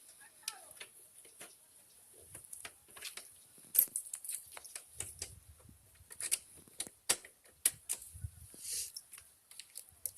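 Irregular clicks and knocks of motorcycle covers and parts being handled and fitted back on, with no engine running.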